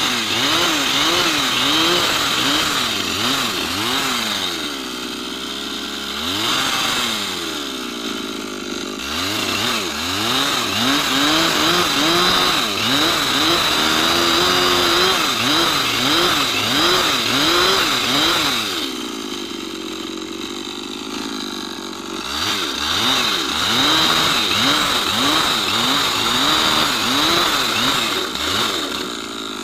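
Chainsaw cutting wood, its engine pitch rising and falling over and over as the throttle is worked. It drops to a lower, quieter run for a few seconds about two-thirds of the way through and again near the end.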